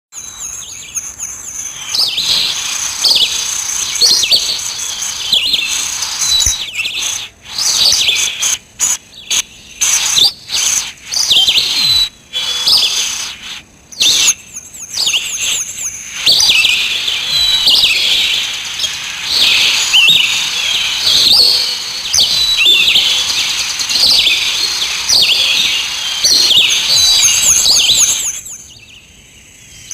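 Many small songbirds chirping and calling together in a dense, overlapping chorus of high chirps. The sound cuts out abruptly several times between about 7 and 15 seconds and drops away shortly before the end.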